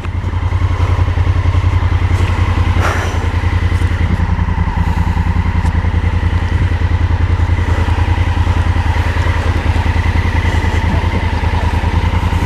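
Motorcycle engine idling steadily in neutral, with an even, fast low pulsing.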